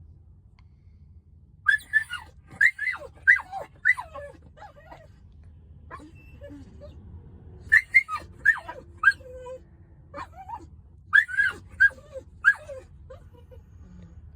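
A dog making short, high cries that drop in pitch, in three bouts of several cries each, with pauses between.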